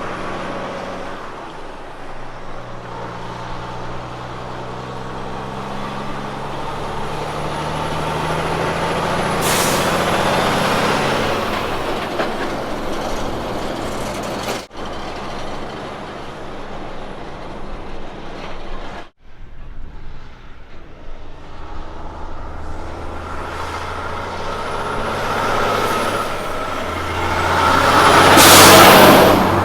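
Road-train prime mover diesel engines running as the trucks work and pull past, with a short burst of air hiss about ten seconds in and a louder, longer hiss near the end. The sound cuts off abruptly twice partway through.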